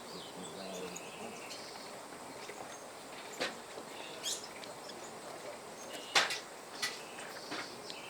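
Birds chirping faintly in the background, with a few sharp clicks or knocks; the loudest comes a little after the middle.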